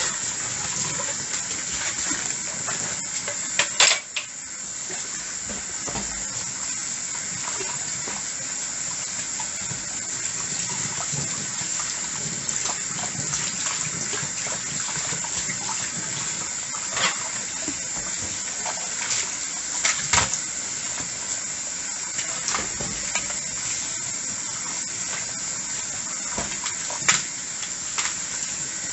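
Tap water running steadily into a sink during hand dishwashing, with a few sharp clinks of dishes, the loudest about four seconds in and again about twenty seconds in.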